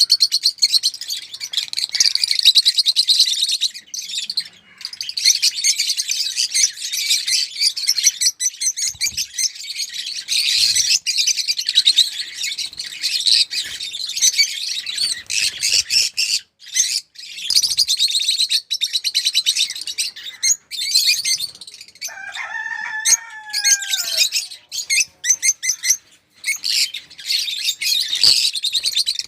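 A flock of African lovebirds chattering: dense, continuous high-pitched chirping. About 22 seconds in, a lower, drawn-out call rises above it and falls in pitch at the end.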